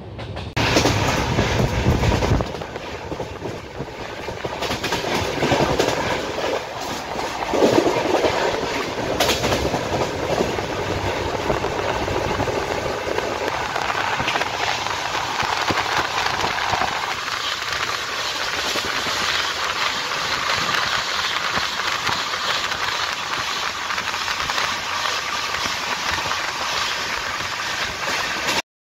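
Indian Railways express train running at speed, its wheels on the rails, heard from inside a sleeper coach at an open window.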